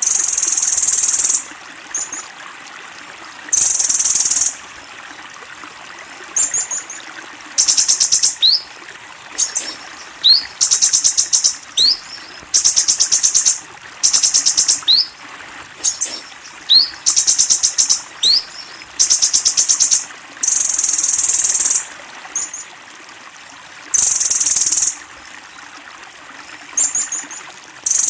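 Kolibri ninja sunbird singing a very high-pitched song in repeated bursts: rapid trills and buzzy notes about a second long, mixed with short rising whistles. These are the fast 'tembakan' (shot) phrases that songbird keepers prize.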